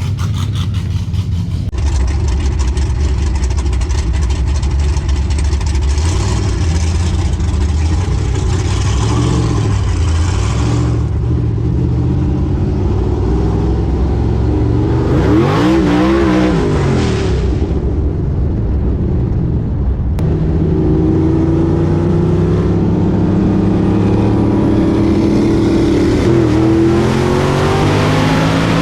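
Modified performance car engines running hard under acceleration. About halfway through a car sweeps past, its pitch rising then falling, and after that a steady engine note climbs slowly in pitch as it pulls.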